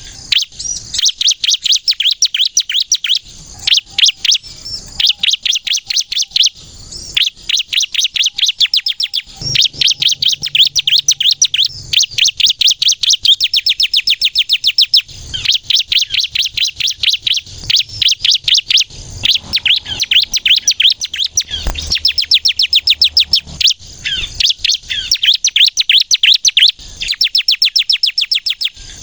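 Bar-winged prinia (ciblek kristal) singing loudly: high, rapid trills of quick repeated notes in bursts of one to three seconds, separated by short breaks.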